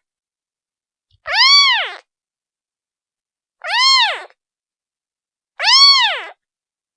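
A day-old kitten meowing to call its mother: three high meows about two seconds apart, each rising and then falling in pitch, with silence between.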